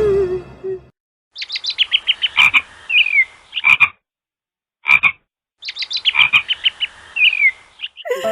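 Animal calls: a rapid pulsed trill, then a short down-sliding note and a short burst, heard twice in the same pattern with a single short call between.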